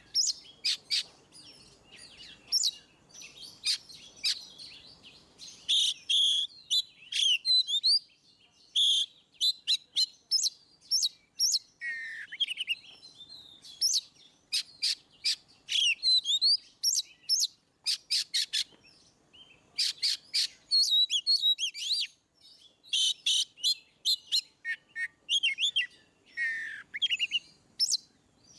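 Oriental magpie-robin (kacer) singing a long, varied song of rapid sharp clicking notes mixed with whistled glides, with a few brief pauses.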